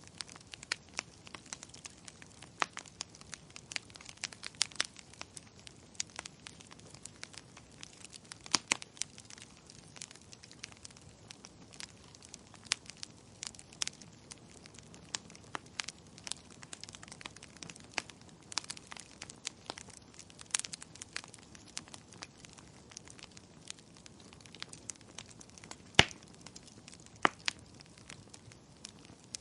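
Wood fire burning in a fireplace, crackling and popping irregularly over a low hiss, with a few sharper pops, the loudest about 26 seconds in.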